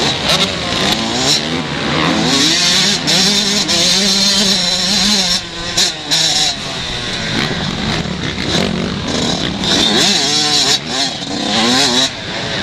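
Several 125-class motocross bikes racing, their engines revving up and down through the gears as they pass, several engine notes overlapping at once.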